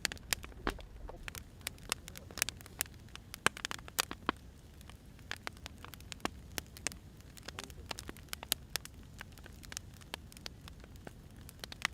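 Firewood burning, crackling with many irregular sharp pops over a low steady rush of the flames.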